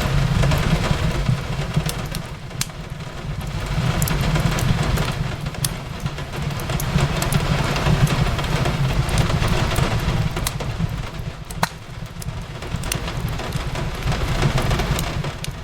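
Fireplace crackling, with scattered sharp pops over a steady low rumble, mixed with the continuous hiss of rain. The overall level swells and eases every few seconds.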